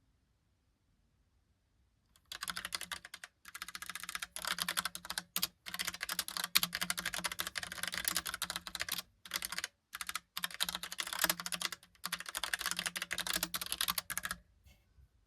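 Typing on a Logitech POP Keys typewriter-style mechanical keyboard. Fast runs of keystrokes start about two seconds in, broken by a few brief pauses, and stop shortly before the end.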